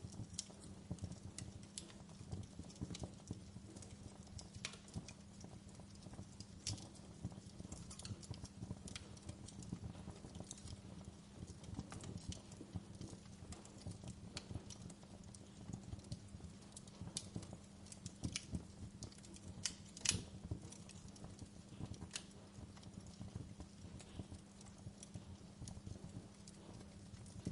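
Fireplace fire crackling: irregular sharp pops and snaps over a low steady hum, with one louder pop about twenty seconds in.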